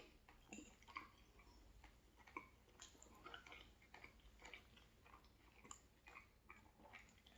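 Faint chewing of a mouthful of mild Italian sausage: soft, irregular wet mouth clicks and smacks.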